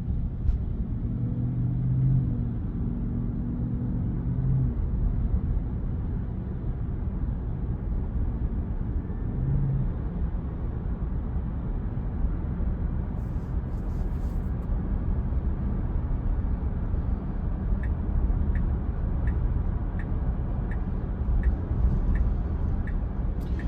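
Road and tyre noise inside the cabin of an electric Tesla Model Y at speed, a steady low rumble. Near the end a turn-signal indicator starts ticking, about once every 0.7 s, for a lane change to the right.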